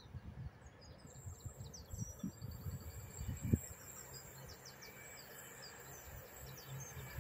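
Small birds chirping, many short quick high chirps, over irregular low rumbling bursts of wind on the microphone.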